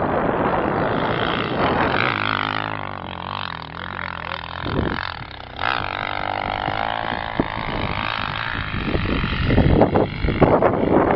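Motocross bike engine revving, its pitch rising and falling, louder and rougher near the end.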